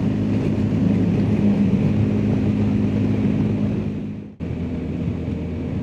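BMW R1250GSA's boxer-twin engine running steadily under way, with road and wind noise. The sound dips sharply about four seconds in and comes straight back.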